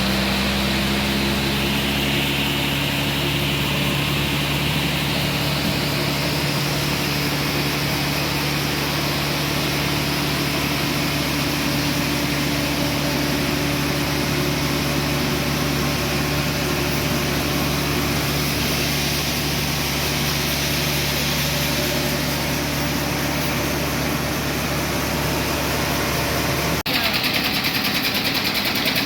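Portable band sawmill running steadily, its engine note holding level throughout. About 27 seconds in, the sound cuts abruptly to a louder, fast, even machine rattle.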